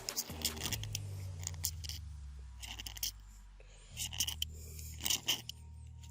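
A steel striker scraped along a ferrocerium rod in quick, sharp, rasping strokes, in bunches, the densest bunch about four to five seconds in.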